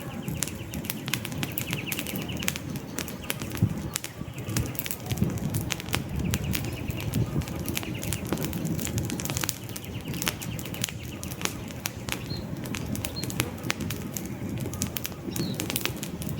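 Wood campfire burning: frequent sharp crackles and pops from the logs over a low, steady rush of flame. A few faint high bird chirps come in near the end.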